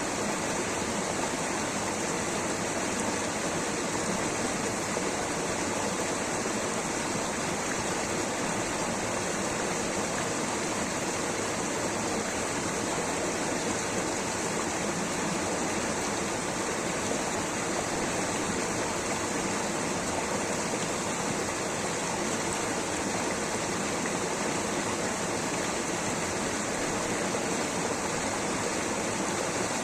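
Water rushing steadily over rocks in a stream or small waterfall: a constant, even roar with no breaks.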